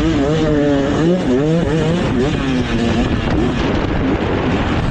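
Beta 450 RX four-stroke single-cylinder dirt bike engine revving up and down repeatedly, its pitch rising and falling with the throttle and gear changes while being ridden hard.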